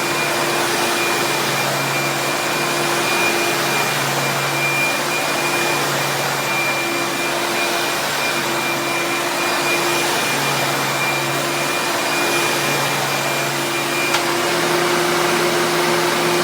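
A refurbished 1990s upright vacuum cleaner running steadily with a loud motor hum. A faint high whine in it drops out near the end.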